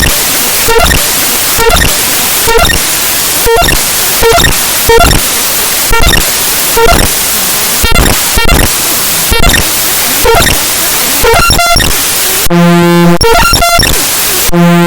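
Raw binary data of the Windows imageres.dll file played back as 44.1 kHz stereo audio: loud harsh static with a regular stutter of clicks about twice a second. Near the end come two short buzzing tones.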